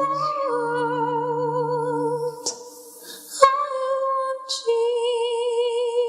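A cappella vocal harmony of long held notes with vibrato, a low voice under higher female voices. The low voice drops out about two and a half seconds in, there is a short lull with breaths, and the higher voices come back in holding the chord.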